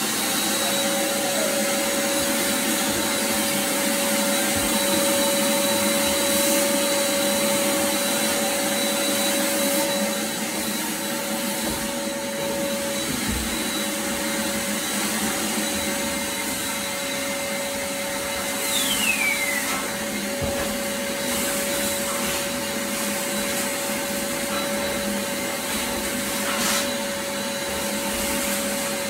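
Vacuum cleaner running steadily, a constant rushing noise with a steady hum-tone on top, easing slightly about a third of the way in. A brief falling whistle cuts through about two-thirds of the way in.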